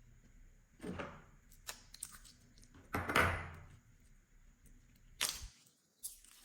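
Slime being mixed, in several separate squishing sounds; the loudest and longest comes about three seconds in.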